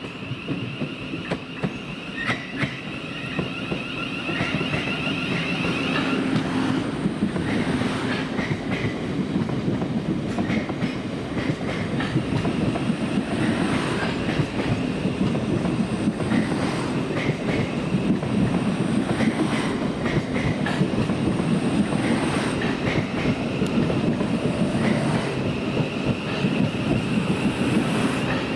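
Class 700 electric multiple unit moving over pointwork, its wheels clicking over the rail joints and crossings over a steady rumble. A high whine sounds at the start and again near the end.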